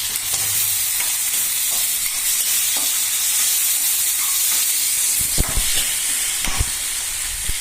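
Onions and green chillies frying in oil in a pan, sizzling steadily while being stirred. A few low knocks come in the second half.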